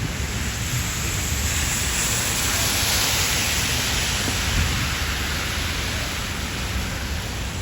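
Heavy rain pouring steadily, a dense even hiss that swells for a few seconds around the middle, over a low rumble.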